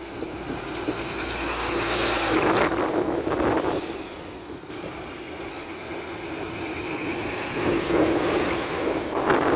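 Heavily loaded truck's engine running under load: a steady drone that swells louder about two to three seconds in and again near the end.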